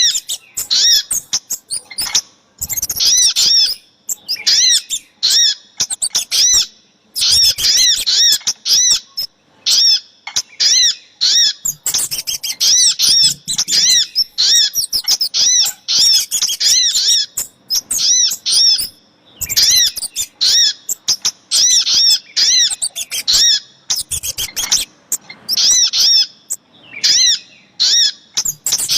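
Recorded lure calls of small songbirds, sogok ontong and kemade, played to draw wild birds in: rapid series of high, arched chirping notes in bursts, broken by short pauses.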